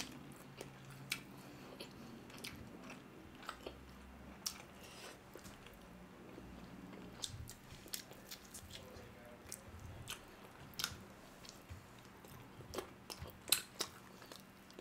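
Chewing and biting of two people eating chicken and rice with their fingers: soft wet mouth clicks and lip smacks, scattered irregularly, with a cluster of louder smacks near the end.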